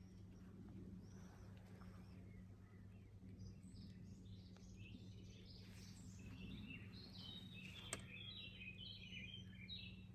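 Birds chirping faintly in quick runs of short high notes, thickening from about three seconds in, over a steady low hum; a single sharp click near the end.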